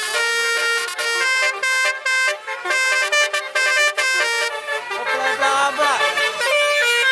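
Truck basuri melody horn playing a tune of held, shifting notes, with a falling siren-like wail about five and a half seconds in.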